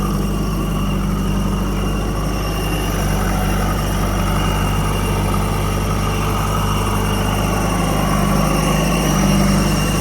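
Heavy diesel engine running steadily, its note shifting a little and growing slightly louder near the end.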